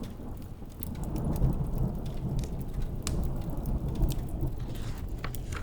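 Rain falling steadily with a low rumble of thunder underneath, dotted with sharp pops and crackles from a wood fire.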